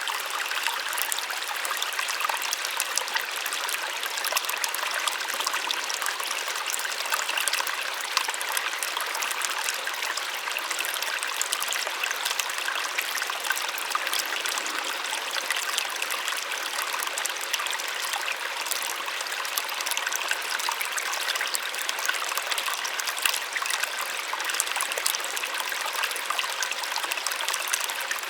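Small waterfall splashing and trickling steadily, a continuous bright rush of water without a deep rumble.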